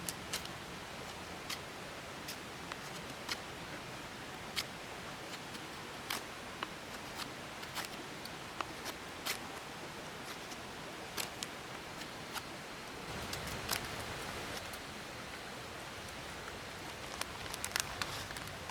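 Steady hiss of light rain with scattered sharp ticks of drops or twigs. A louder rustling comes about two-thirds of the way through, and a few quick clicks come near the end.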